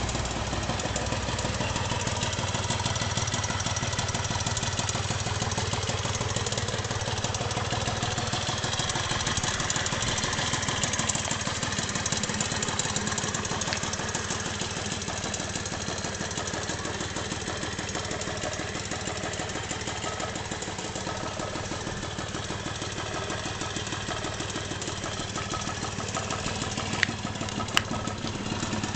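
Honda Gyro Up scooter's small two-stroke engine idling steadily after starting. Two short sharp clicks come near the end.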